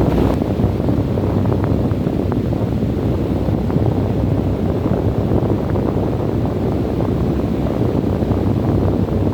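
Desert wind blowing steadily, a low, even rushing noise with a few faint ticks scattered through it.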